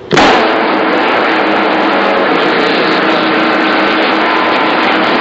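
CB radio speaker giving loud, steady static as another station keys up on the channel, with faint steady tones buried in the noise. It cuts in suddenly just after the start.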